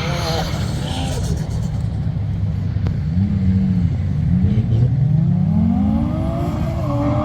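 Car engine revving: a short rise and fall in pitch about three seconds in, then a long steady climb toward the end, over a constant low drone.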